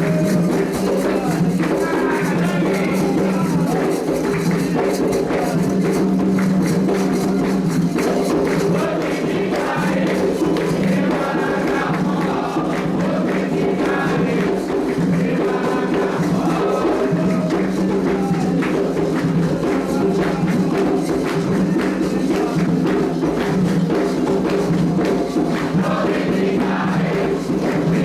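Candomblé ritual music: a group sings a chant over steady, fast hand percussion.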